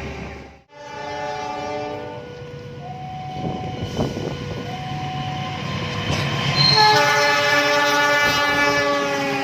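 Locomotive air horn blowing long, steady blasts of several notes at once over the rumble of a train. The sound cuts out sharply just under a second in, returns, and is loudest from about seven seconds in.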